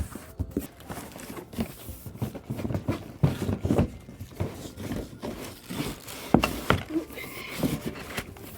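Irregular knocks, clicks and scrapes of unpacking: cordless stick vacuum parts and packaging being handled and lifted out of a cardboard box.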